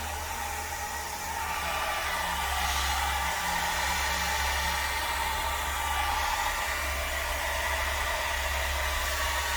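Handheld hair dryer running steadily, blowing air to spread poured acrylic paint across a canvas.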